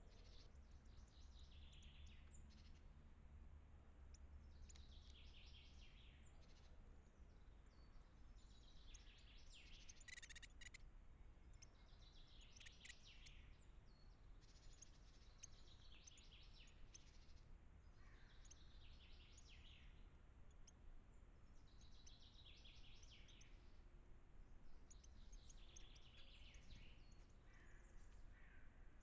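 Faint songbird song in woodland: short phrases of quick high notes, repeated about every two to three seconds, over a low steady background hum.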